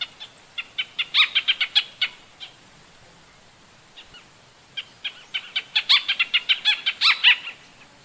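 Crested treeswift calling: two quick series of short, sharp, high notes, several a second, each series lasting about two seconds, with a pause of about two seconds between them.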